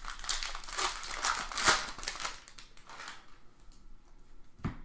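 Foil trading-card pack wrapper crinkling and tearing open for about three seconds, then fainter rustling, with one sharp click near the end.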